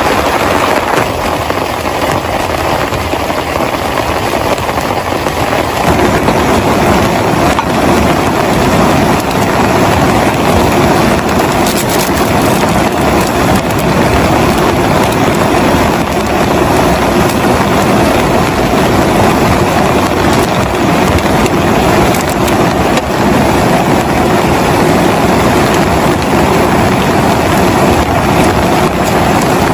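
Heavy rain pouring steadily in a dense, unbroken rush, growing heavier and fuller about six seconds in.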